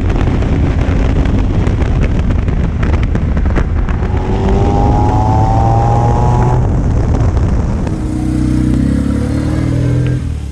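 Motorcycle-engined Citroën 2CV driving hard: its engine note climbs in pitch as it accelerates, then, after an abrupt change about eight seconds in, the note falls away before dropping off near the end.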